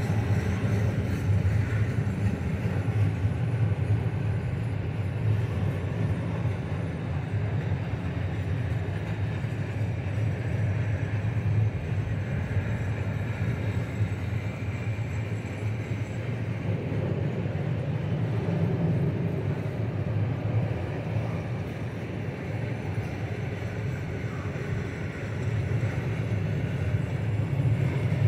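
Freight train wagons rolling across a railway bridge: a steady low rumble of wheels on rail, easing slightly past the middle and building again near the end.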